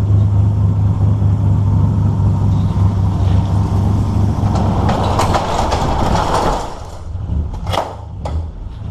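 Chevrolet S10 pickup's swapped-in engine running with a steady low hum, a rushing noise rising over it past the middle; near the end it drops off, followed by a few sharp knocks.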